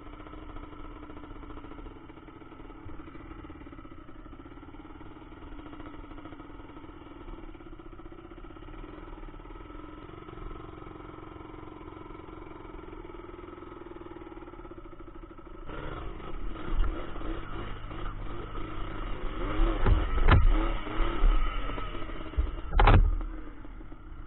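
Yamaha Blaster quad's two-stroke single-cylinder engine running at a steady idle. About two-thirds of the way in it is revved in uneven bursts, with two sharp bangs near the end.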